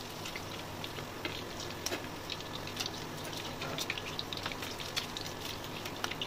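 Paneer cubes frying in hot refined vegetable oil in a karahi: a steady sizzle with many scattered crackling pops.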